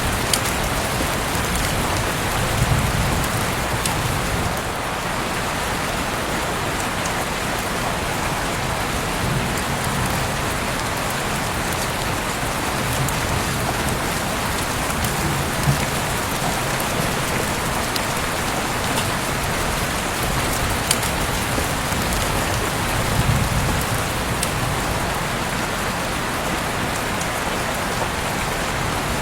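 Heavy rain falling steadily, with scattered sharp drips and splashes and occasional brief low rumbles.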